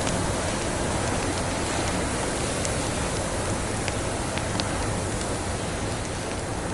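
Steady rushing noise of a heavy snowstorm, with a few sharp pops from a crackling wood fire scattered through it.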